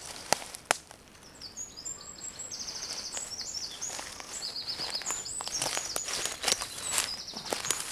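Songbird singing in quick high trilled phrases, one after another, from about a second and a half in until near the end. Footsteps in the forest undergrowth and two sharp clicks near the start.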